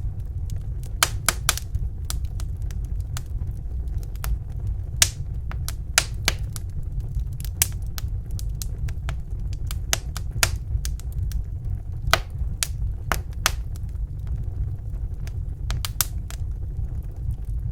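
Wood fire crackling in a fireplace: sharp, irregular pops and snaps a few times a second over a steady low rumble.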